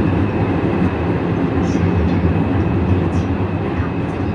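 Guangzhou Metro Line 1 Siemens A1 train running: a steady rumble with a thin, steady high tone over it.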